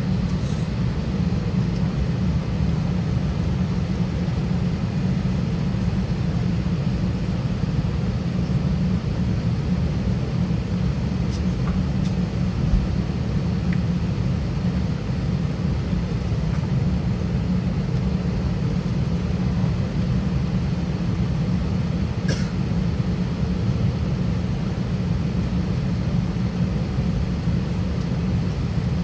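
Steady low rumble heard inside the cabin of an Airbus A320 on the ground, with a faint click or two partway through.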